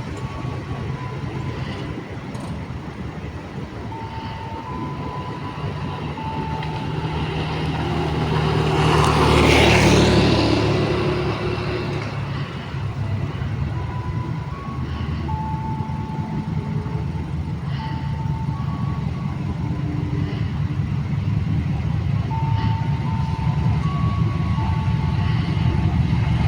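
Large engine running steadily with a low hum, swelling loudly about nine seconds in and building again toward the end.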